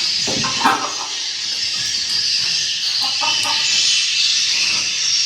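Recorded swiftlet calls played through a swiftlet house's sound system: a dense, steady twittering with a few short lower chirps. Such recordings are played to lure swiftlets to roost and nest.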